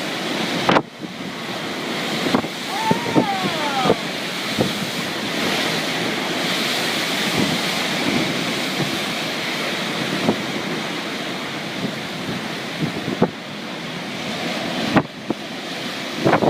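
Strong wind from a dust devil rushing over the microphone, a steady roar with scattered knocks and a brief rising-and-falling tone about three seconds in.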